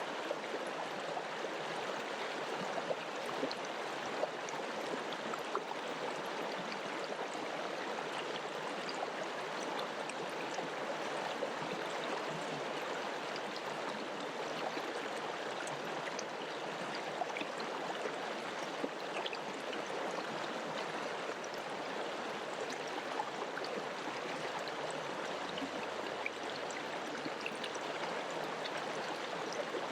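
Mountain river flowing over rocks: a steady rushing and babbling of water, with small splashes and droplets scattered through it.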